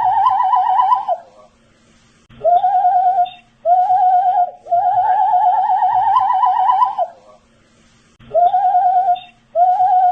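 A man whistling a tune in a string of wavering notes with a fast vibrato, the longer notes drifting slightly upward in pitch. It breaks off twice for about a second, about a second in and again about seven seconds in.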